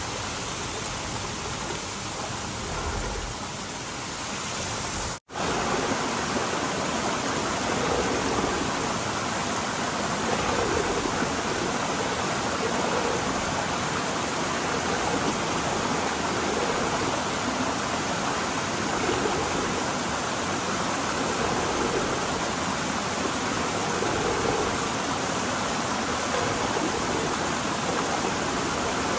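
Steady rush of flowing water. It drops out for an instant about five seconds in and comes back slightly louder.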